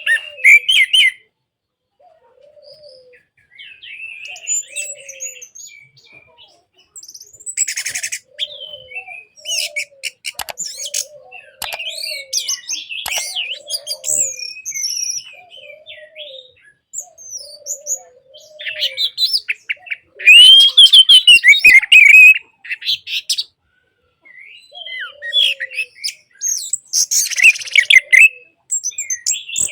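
Orange-headed thrush (anis merah) singing: varied quick phrases of whistles, trills and chatter, loudest about twenty seconds in, over a soft low note that repeats throughout.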